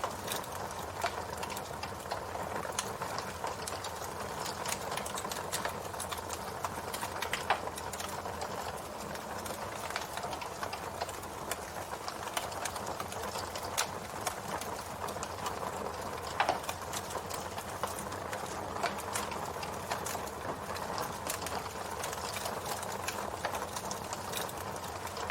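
Campfire burning: a steady hiss with frequent small crackles and a few louder sharp pops scattered through.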